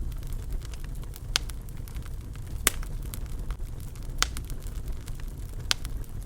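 Wood fire crackling in a fireplace: a steady low rumble of flames under many small crackles, with four louder pops spaced about a second and a half apart.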